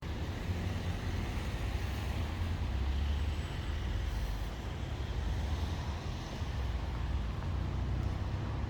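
Mercedes-Benz C180 Kompressor's supercharged four-cylinder engine running steadily with a low rumble.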